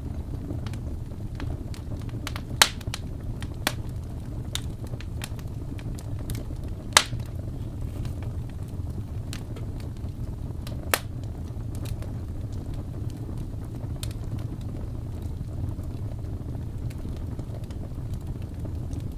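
Wood fire burning in a fireplace: a steady low rumble with scattered crackles and a few sharp pops.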